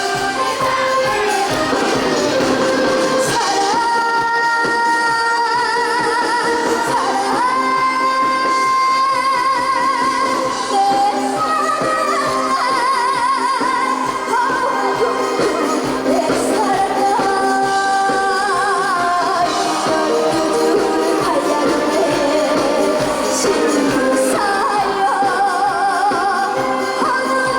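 A young girl singing a Korean trot song live over musical accompaniment, holding long notes with a wide, wavy vibrato.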